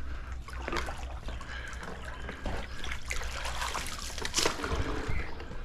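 Pool skimmer net on a pole swishing through the water along the tile line, with irregular splashing and trickling and a sharper splash about four and a half seconds in.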